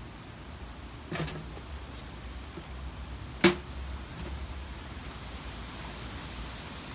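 Two knocks from objects being handled, a lighter one about a second in and a sharper, louder one with a brief ring a couple of seconds later, over a low steady hum.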